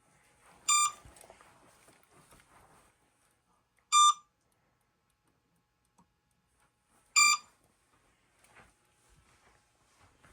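Electronic alert beep from the RC helicopter's radio gear, left switched on: a short, high beep repeating about every three seconds.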